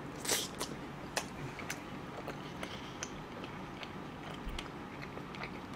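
Close-up chewing of sauce-glazed fried chicken: one sharp crunchy bite about a third of a second in, then soft, irregular clicking mouth sounds as it is chewed.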